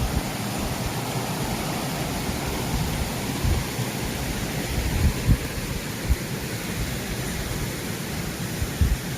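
Mountain stream rushing steadily after rain, a continuous even wash of water noise, with a few low thumps, the strongest about five seconds in and near the end.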